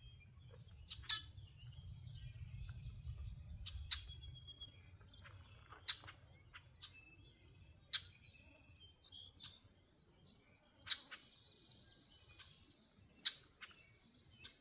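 Wild birds chirping and singing, several calls overlapping. Sharp, very short clicks come about every two seconds and are the loudest sounds. A low rumble like wind runs under the first few seconds.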